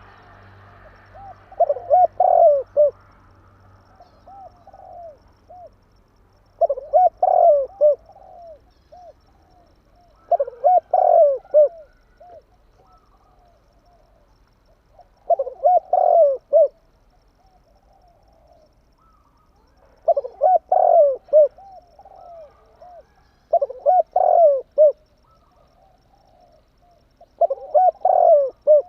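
Spotted dove cooing: a short phrase of several quick coos, repeated seven times at intervals of about four seconds.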